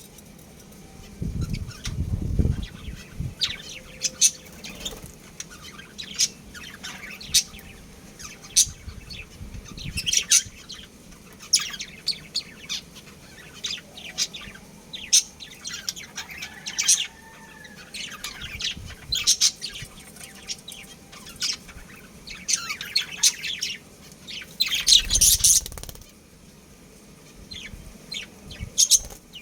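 Budgerigars chirping, many short sharp calls scattered throughout, with two louder low bursts, one a second or two in and one near the end.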